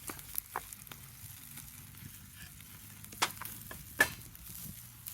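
Campfire crackling: scattered sharp pops over a faint low hum, the loudest pops about three and four seconds in.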